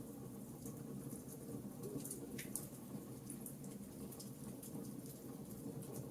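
Wood fire in a fireplace crackling: many small sharp pops and snaps, irregularly spaced, over a steady low rumble.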